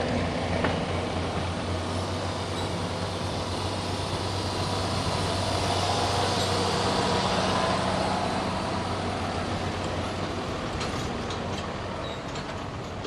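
A pulling vehicle's engine running hard under load during a pull. It grows louder to a peak about halfway through, then fades away.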